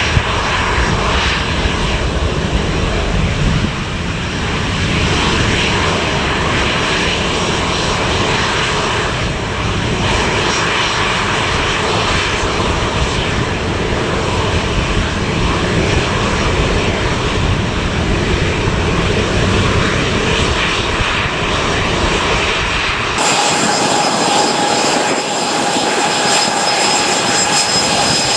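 Departing jet airliner's engines at takeoff power, a loud, dense rumble. About 23 seconds in this gives way suddenly to a steadier jet engine whine with high whistling tones and much less rumble.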